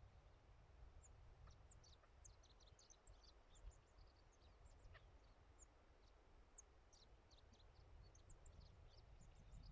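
Faint chirping of small birds: many short, high calls scattered throughout, over a low rumble of wind or microphone noise.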